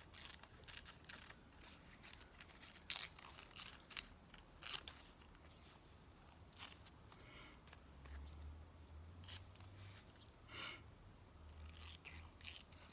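Scissors snipping through paper, faint short cuts at irregular intervals a second or two apart, with a faint low hum coming in about two-thirds of the way through.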